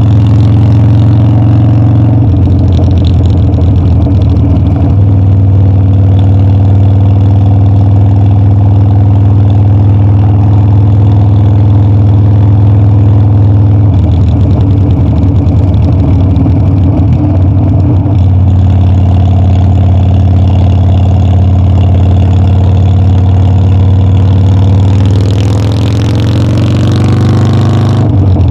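Harley-Davidson Dyna's V-twin engine running steadily while riding, with the throttle varying a couple of times; near the end the pitch rises as it accelerates.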